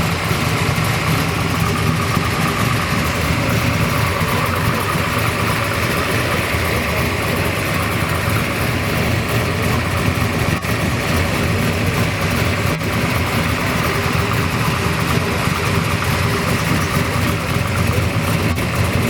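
1966 Ford Galaxie 7 Litre's big-block V8 idling steadily with a low rumble.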